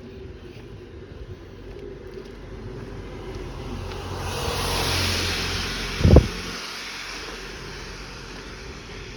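A car passing by, its noise swelling to a peak and fading away over a few seconds. A short, deep thump comes about six seconds in.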